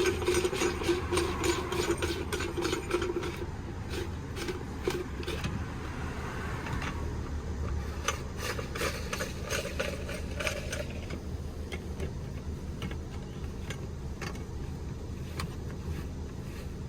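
Parts of a bed-platform support frame being handled: a run of quick clicks and knocks, busiest for the first ten seconds or so and then thinning out, with a scraping squeal in the first few seconds, over a low steady hum.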